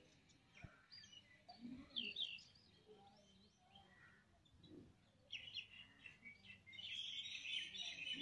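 Faint outdoor birdsong: scattered short chirps that grow busier over the last few seconds.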